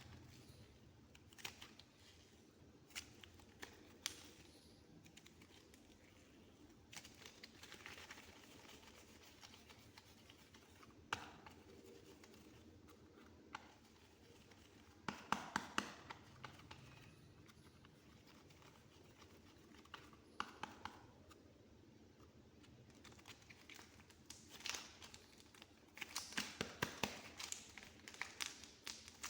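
Soft modelling clay being handled and squished, giving faint sticky clicks and short crackling flurries, with a quick cluster of clicks about halfway and a run of them near the end.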